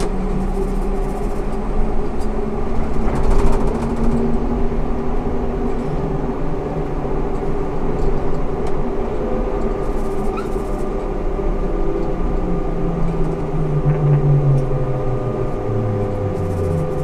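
Ikarus 280T articulated trolleybus on the move: its electric drive gives a steady hum with several held tones over road rumble. Near the end a strong lower tone slides down in pitch.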